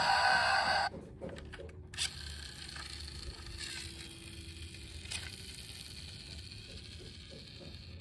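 A loud electronic sound with several slowly rising pitched lines, like a toy vehicle's sound effect, cuts off abruptly about a second in; after that only faint scattered clicks and rattles of small toys being handled.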